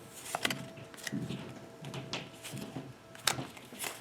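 Trading cards being handled: a few soft clicks and light rustles as cards are slid and set down, with one sharper click about three seconds in.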